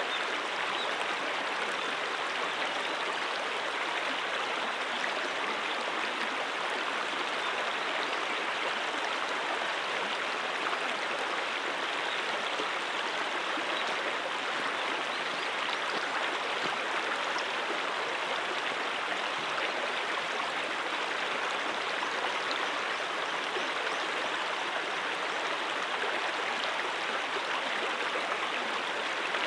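A mountain stream running over rocks: a steady, unbroken rush of water.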